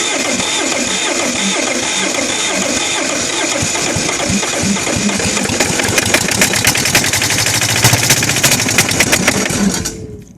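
Kohler KD425-2 two-cylinder diesel cranking on the starter with a slow, even beat, then catching and picking up speed about six seconds in before it cuts off suddenly near the end. The engine is hard starting, which the owner puts down to an air leak that keeps losing the fuel prime.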